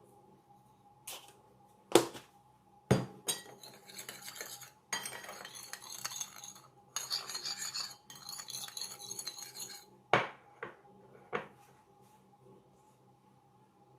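A metal utensil knocking against cookware a few times, then stirring and scraping in runs of a second or two, and a few more knocks near the end. A faint steady hum runs underneath.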